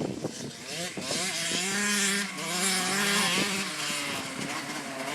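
Motorcycle engine running at moderate, fairly steady revs, its pitch wavering a little.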